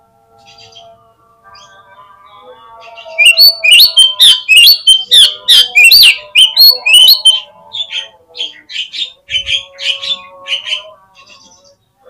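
Oriental magpie-robin (kacer) song: a rapid run of loud, high notes, many sliding up and down, starting about three seconds in and thinning out near the end, over quieter steady lower tones.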